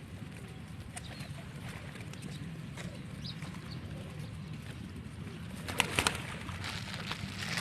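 Birds calling over a steady low hum, with a few sharp clicks about six seconds in.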